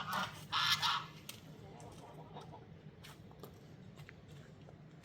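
A goose gives one harsh, loud honk in the first second, followed by a quieter stretch with a few faint clicks.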